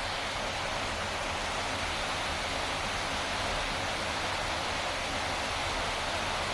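Sahalie Falls, a strong, high-volume waterfall, giving a steady, unbroken rush of falling water.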